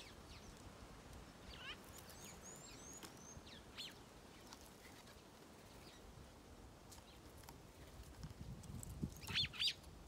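Small garden birds chirping: scattered short, high calls, some sweeping quickly up or down in pitch, with a louder cluster of chirps near the end.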